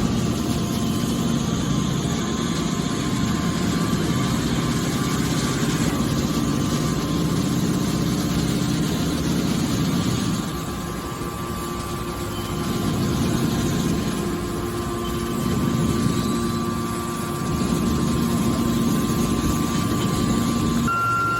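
Hydraulic scrap baler running: the steady drone of its motor and hydraulic pump with a faint steady whine. It eases off briefly about halfway through, then builds again.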